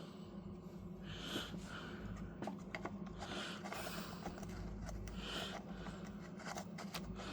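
A person breathing heavily close to the microphone, a breath about every two seconds, with small clicks of handling parts over a steady low hum.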